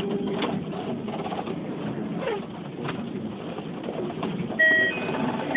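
Keikyu New 1000-series train slowing into a station, heard from inside the car: steady running rumble with a falling whine about two seconds in. Near the end a short chime-like tone sounds.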